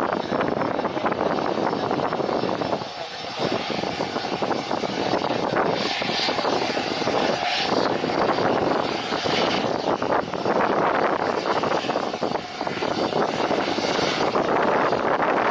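Fixed-wing airplane engine running, a dense steady drone whose level rises and falls, with brief dips about three, seven and twelve seconds in.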